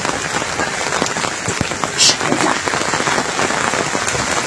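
Steady rain falling and pattering on a surface, a dense hiss of many small drop ticks, with one brief sharper hiss about two seconds in.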